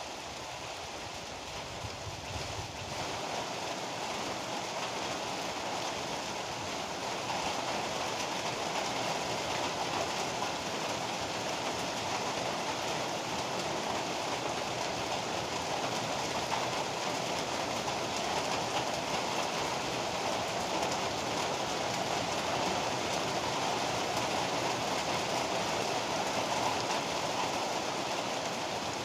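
Heavy rain pouring steadily, a dense even hiss that grows a little heavier over the first several seconds and then holds.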